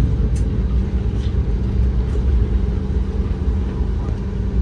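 Jet airliner cabin noise just after landing: a steady low rumble of engines and rolling wheels with a constant hum.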